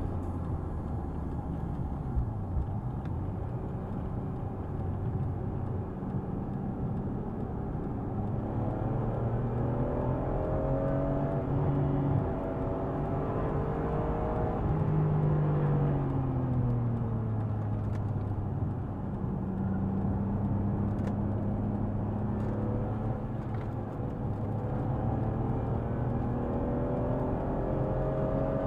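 BMW M3 E46's S54 straight-six engine being driven hard on a circuit. The revs climb from about eight seconds in, peak just after the middle, fall away for a few seconds, hold steady, then climb again near the end.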